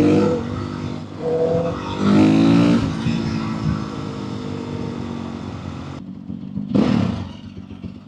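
Motorcycle engine revving hard, its pitch climbing in several pulls over the first three seconds, then running steadier and quieter. A short, loud rush of noise comes about seven seconds in.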